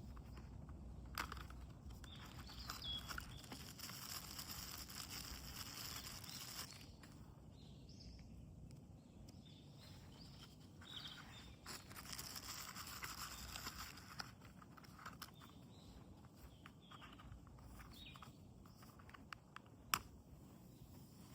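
Quiet outdoor ambience: stretches of soft rustling hiss, faint short bird chirps, and a few sharp clicks or snaps, the loudest about twenty seconds in.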